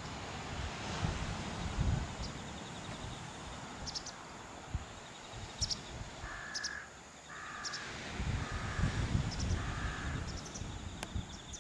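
A bird cawing four times in a row, each call about half a second long, starting about six seconds in. Short high chirps from small birds come and go, over a low, uneven rumble of wind on the microphone.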